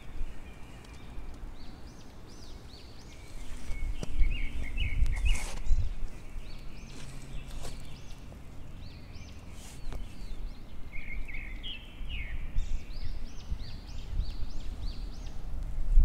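Small birds chirping in short, repeated calls over a steady low rumble, with a few footsteps in snow.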